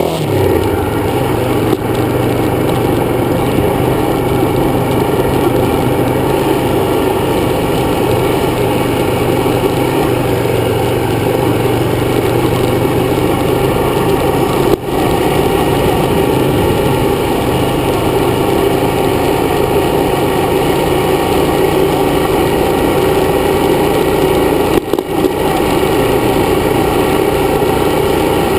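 Dirt bike engine running steadily under way, heard from on the bike, dropping out briefly twice, about halfway through and near the end.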